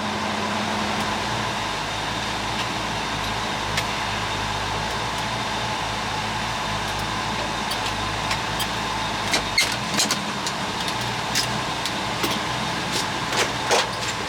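Car engine running at low speed, with road noise heard from inside the car. A scatter of short clicks and ticks comes in the last few seconds.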